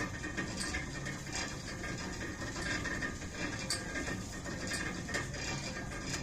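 Hand-cranked river ferry's winch gearing at work, giving off irregular metallic clicks and clanks over a low rumble.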